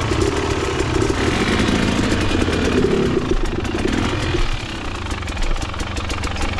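Dirt bike engine running at low revs, with a steady firing pulse; its mid-range note drops away about four and a half seconds in.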